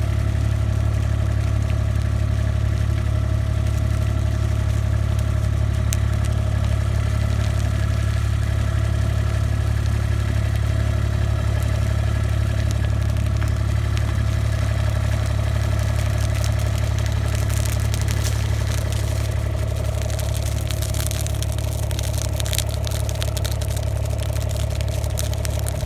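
A vehicle engine running at a steady speed with a low rumble, and light clattering in the second half.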